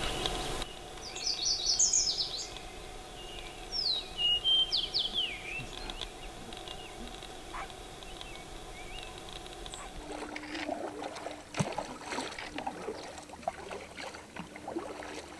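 Birds calling: a quick run of short high chirps about two seconds in and a few sliding call notes around four to five seconds in. From about ten seconds in, light splashes and drips of a kayak paddle in calm water.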